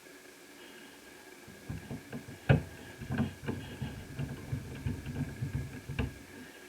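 Rapid small clicks and knocks of laptop parts being handled, with a sharp click about two and a half seconds in and another near six seconds.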